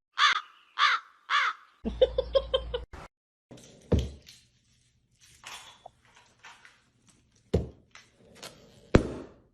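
An animal calling three times in quick, arching calls, then a fast run of about six shorter calls. Several sharp thumps follow, the loudest near the end.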